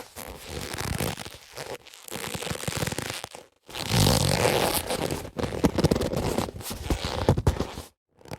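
Boxing gloves being handled and rubbed, a crackly scraping of the glove material in several long stretches with short breaks about three and a half seconds in and near the end.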